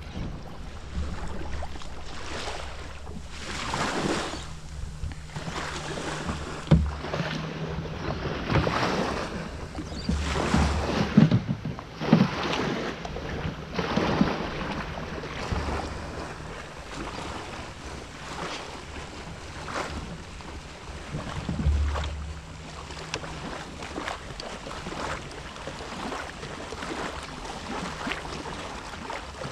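Jet ski idling at sea with a low steady hum, while water splashes and slaps against the hull in swells and wind buffets the microphone, with a few sharp knocks.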